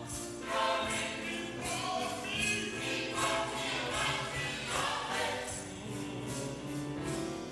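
Gospel choir singing a held 'oh glory' refrain over instrumental accompaniment with a steady beat.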